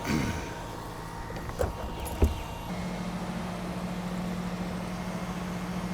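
Truck-mounted crane's engine running, falling in pitch at the start, with two sharp knocks about one and a half and two seconds in; a little under three seconds in, a steady low hum sets in.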